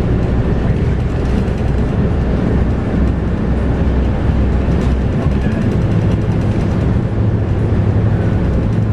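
Scania DC9 8.9-litre five-cylinder diesel bus engine running under way, heard from inside the bus with steady road noise. Its low note changes a little just over halfway through.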